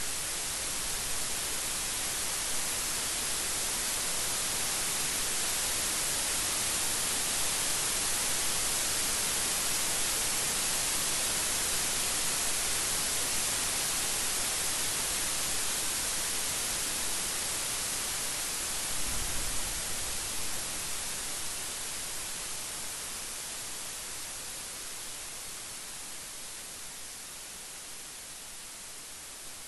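Steady heavy rain, an even hiss, with a brief low rumble of thunder about two-thirds of the way in; the rain eases slightly toward the end.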